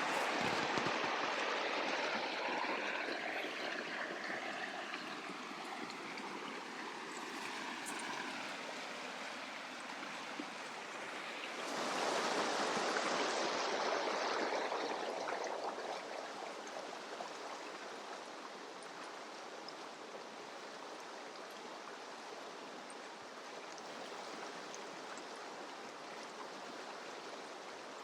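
A mountain river's water rushing steadily; the rush swells louder about twelve seconds in, then eases back to a steady, lower level.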